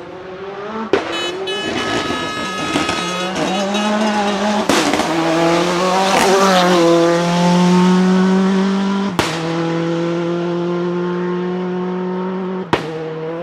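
Rally car engine running hard at high revs, its pitch climbing and dropping between shifts and then held high for several seconds, with some tyre squeal. Four sharp clicks break the sound along the way.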